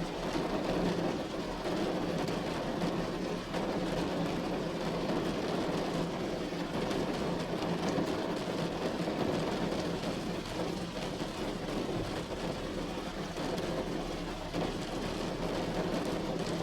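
Steady heavy rain drumming on a metal roof, a dense unbroken patter that is fullest in the low-middle range.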